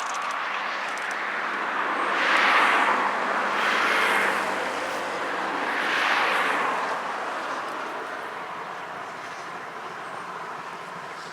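A train passing on the line: a broad rushing noise that swells three times in the first half, then slowly dies away.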